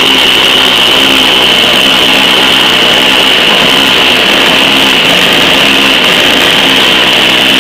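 Small Briggs & Stratton engine on a Craftsman machine running steadily, still cold just after a choked cold start; the owner calls it cold-blooded.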